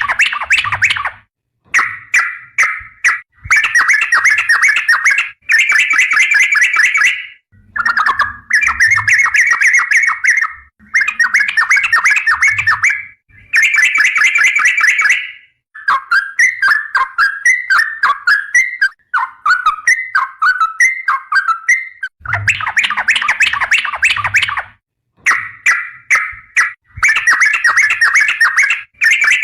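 Yellow-vented bulbul (trucukan) singing in a long run of fast, chattering rolled phrases, each a second or two long with short pauses between them. Around the middle the phrases break into looser, falling notes.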